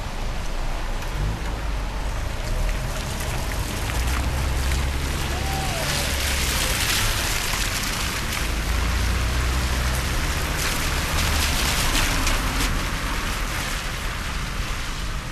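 Steady rain falling, an even hiss with fine pattering, while a low rumble swells and fades twice.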